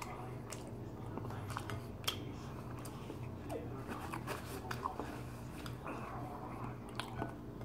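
A person chewing a mouthful of microwaved Philly steak pocket pastry close to the microphone: soft mouth sounds with scattered small clicks. A faint, steady low hum runs underneath.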